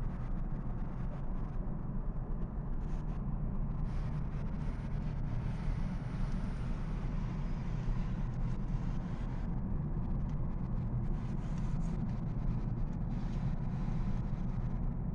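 Steady low rumble of a large boat under way at speed, deepest in the bass.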